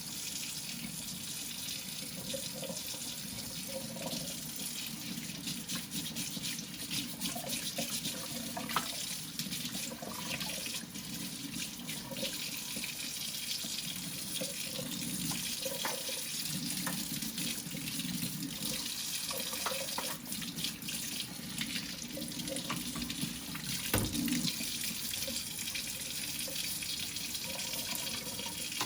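Tap water running steadily into a sink while deer antlers are washed, with scattered small clicks and a couple of sharper knocks, the loudest about 24 seconds in.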